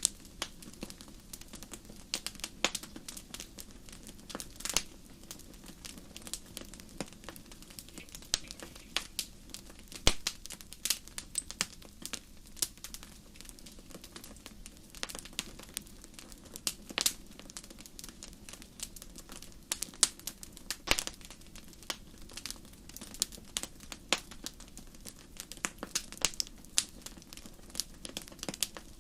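Wood fire crackling in a fireplace: irregular sharp pops and snaps over a low steady hiss, with one louder pop about ten seconds in.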